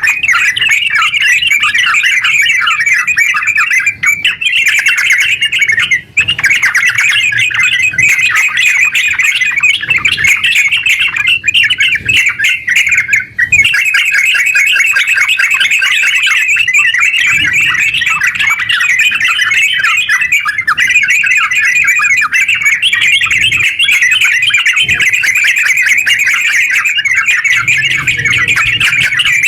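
Yellow-vented bulbul (terucuk) singing a long, rapid, almost unbroken chattering song, the 'ngerpel' style, with only a few short breaks. It is the kind of recording played to lure bulbuls and to set caged ones singing.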